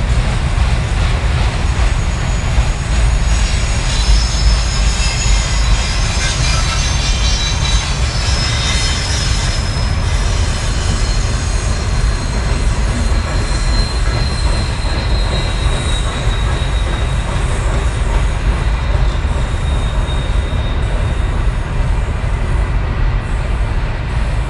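Freight train rolling past: a steady, loud rumble of rail cars, with high-pitched steel wheel squeal for a stretch in the first half that fades out.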